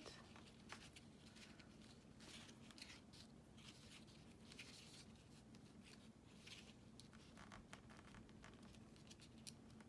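Near silence, with faint, scattered rustles and soft clicks of hands working a short thread into a knot against paper.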